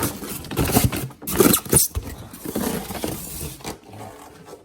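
Packaging rustling and scraping in irregular strokes as a portable air conditioner is handled and taken out of its box.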